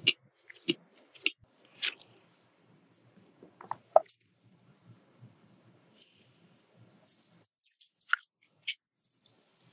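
Close-miked chewing of soft food: wet, squishy mouth sounds broken by irregular small clicks and smacks, with one sharper smack about four seconds in.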